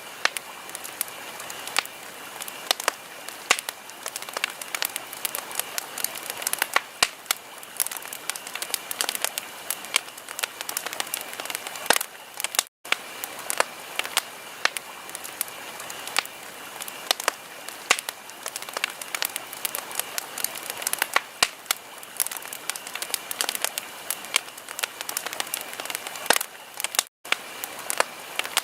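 Wood fire in a fireplace crackling, with dense sharp pops and snaps over a steady hiss. The sound cuts out twice for a split second, about halfway through and near the end.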